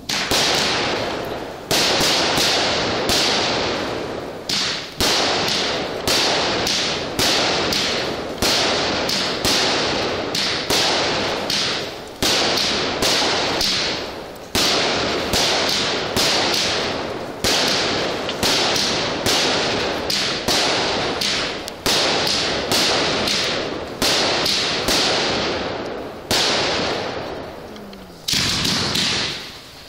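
A consumer fireworks cake (barrage) firing shot after shot, about one a second, each a sharp bang followed by a fading hiss, with a short pause near the end before the shots resume.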